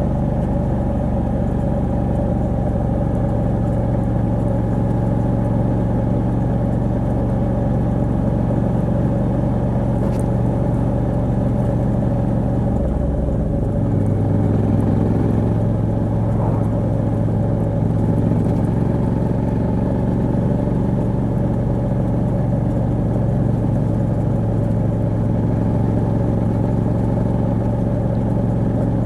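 Moto Guzzi V85TT's air-cooled 853 cc transverse V-twin running steadily under way, through the stock exhaust with a Mistral de-cat pipe. The engine note steps up a little about halfway through.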